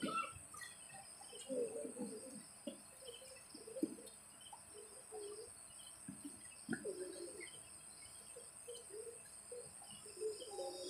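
Quiet pause filled with faint bird calls: short, scattered chirps and coos, none of them loud.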